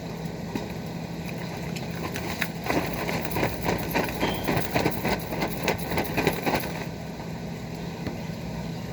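Rain falling, with a steady low hum underneath. From about two and a half seconds in, there are a few seconds of quick, irregular taps and clatter.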